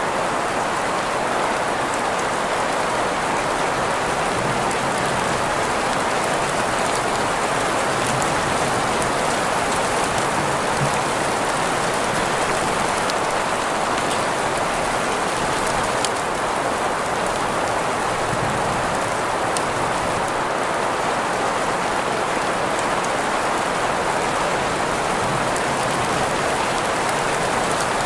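Steady rain falling on a surface, blended with green noise, with faint scattered drop ticks over an even hiss that is strongest in the middle range.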